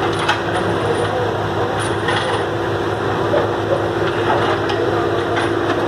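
Heavy diesel engine running steadily, with a few short metallic clicks and knocks over it.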